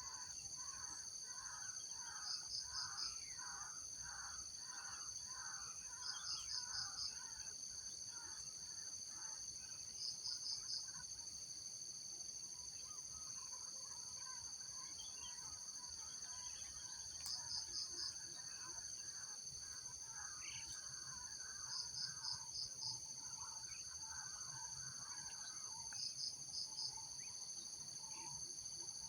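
Forest insects, likely cicadas or crickets, droning shrilly and steadily, with a short pulsing chirp about every four seconds. Over it a bird calls in two long runs of quick repeated notes, one at the start and one in the middle.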